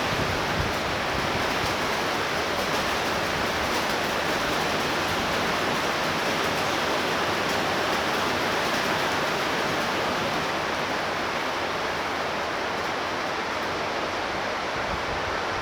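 Torrential rain pouring down, a steady, even hiss.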